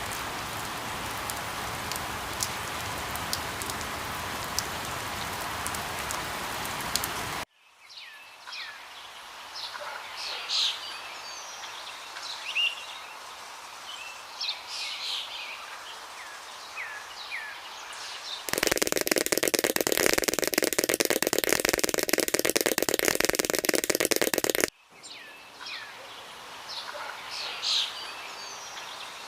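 Wild birds chirping, short sharp calls and little pitch glides, alternating with sudden cuts to a steady rain-like hiss. The hiss fills the opening few seconds and returns louder and fuller in the middle, where it stops abruptly and the chirping comes back.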